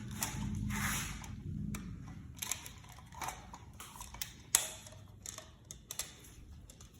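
Hands working electrical wires into the terminal bars of a switch box: rustling and scraping, then scattered light clicks and taps of wire, screws and tools.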